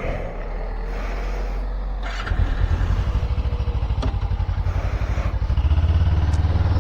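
Suzuki Inazuma motorcycle engine firing up about two seconds in and settling into a steady, evenly pulsing idle, a little louder near the end.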